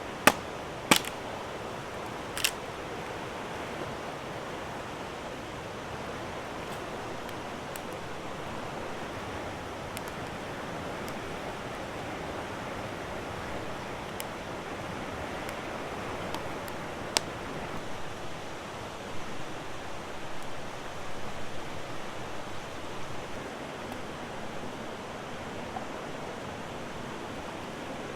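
River water flowing steadily. A few sharp clicks or pops break through, two near the start and one past the middle, and the sound grows louder and more uneven for a few seconds after that.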